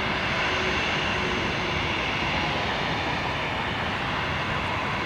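Steady jet airliner engine noise, an even roar that holds without rising or falling, with a faint thin high whine on top.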